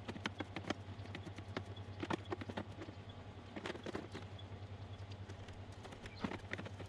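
Irregular clicks and light metallic taps of hand tools and small parts being handled while working on a Jeep's front wheel hub, a few a second with a handful of sharper knocks, over a steady low hum.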